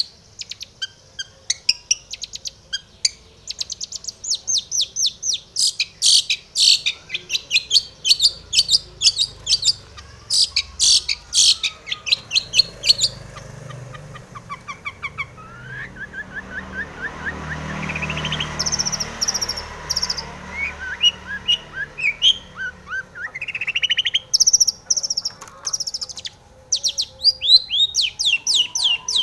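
Long-tailed shrike (cendet) singing in full voice: fast runs of sharp, high chattering notes mixed with rising whistled notes and mimicked phrases of other birds. A low rumble swells and fades in the middle while the song goes quieter.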